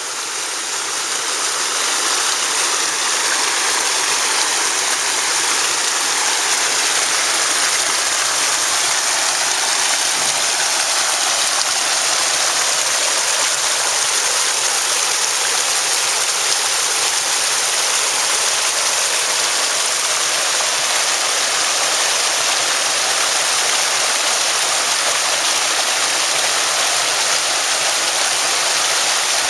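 Waterfall cascading over volcanic rock: a steady rush of water that swells over the first couple of seconds and then holds level.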